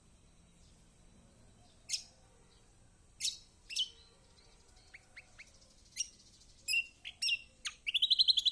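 Kecial kuning white-eye (pleci) calling: sharp, high, down-slurred single notes spaced a second or so apart, a few short faint chirps midway, then a loud rapid trill near the end.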